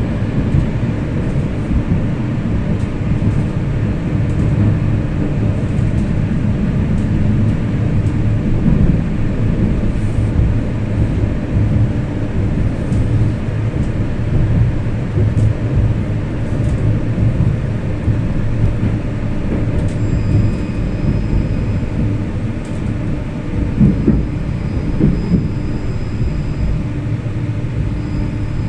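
A tram running along its line, heard from inside the car: a steady low rumble of the wheels on the rails and the running gear. From about twenty seconds in, a faint high whine joins it.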